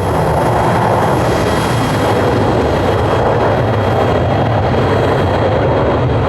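Jet airliner engines at high power, a steady loud rushing noise with deep rumble and a faint whine, from a United Airlines Boeing 777 taking off.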